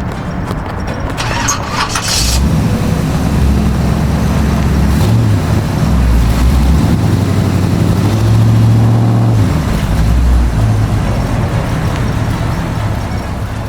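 A car engine running loudly, its low hum stepping up and down in pitch, with a short hiss about two seconds in.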